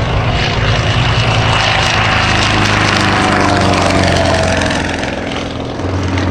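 Sukhoi Su-26MX aerobatic plane's nine-cylinder Vedeneyev M-14P radial engine and propeller running loudly in flight, the pitch sliding down slightly in the middle as it passes, then easing off a little near the end.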